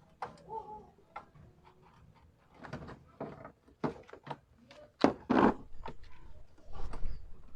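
Irregular clicks, knocks and clunks of tools and plastic parts while the IPDM relay and fuse box is being removed from the engine bay, the loudest a clatter about five seconds in.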